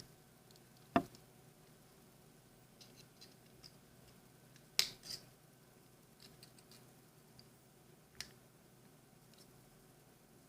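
Pliers or wire cutters working thin craft wire: sharp snips or clicks about a second in, a louder pair near the middle, and another about eight seconds in, with faint small ticks of wire between.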